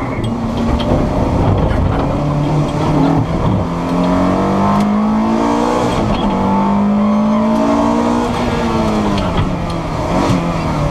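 Ferrari F430 Challenge's V8 engine heard from inside the cabin at speed on track, its pitch climbing and dropping back several times, over a steady noise of road and tyres.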